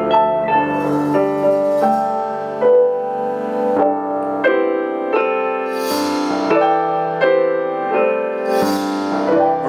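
Solo piano playing a slow interlude of struck chords and melody notes, each note left to ring and fade, between two sung songs.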